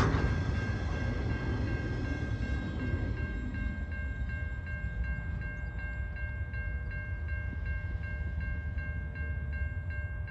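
The empty log wagons at the tail of a freight train rumble away, with a wheel click at the start, and the rumble fades within the first few seconds. A level crossing's electronic warning bell rings steadily throughout, at about two to three strokes a second.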